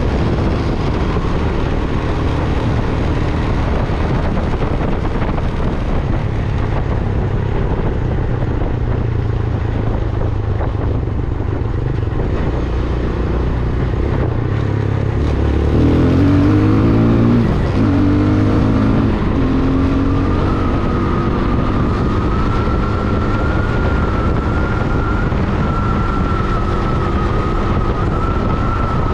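Vento Alpina 300 motorcycle engine running under way. About sixteen seconds in it revs up, rising in pitch through a couple of steps, and is loudest there. It then settles into a steady run with a thin, high whine over it.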